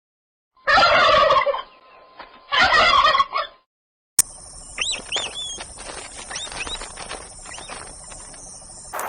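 Two loud, rapidly warbling bird calls about a second each, a second apart. About four seconds in, a different recording cuts in: short high chirps that glide up and down over a steady high hiss.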